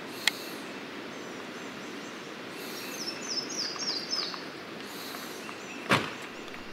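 Outdoor woodland ambience with a small songbird singing a quick run of about six descending chirps in the middle. A sharp click comes near the start and a louder thump near the end.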